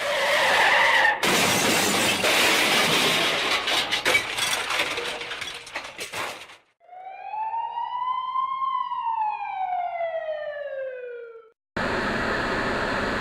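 Loud crashing and shattering noise with many sharp cracks for about five seconds. This is followed by a single siren-like tone that rises slowly and then falls away, and near the end by steady in-car road noise.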